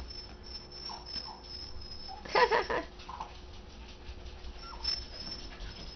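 Four-week-old toy Australian Shepherd puppies squeaking and whimpering at play, with a louder, longer yelping cry about two and a half seconds in.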